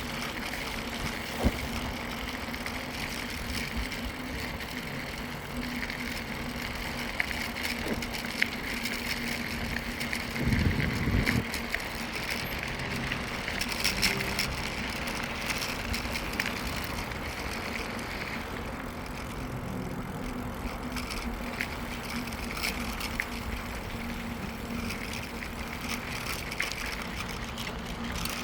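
Mountain bike riding along a rail trail: steady rolling noise from the tyres and drivetrain with a faint steady hum, a few sharp clicks and rattles, and a brief low rumble about ten seconds in.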